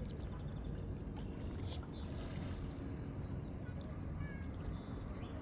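Water lapping and sloshing along the shore in a steady low rumble, with a few faint, short high chirps in the second half.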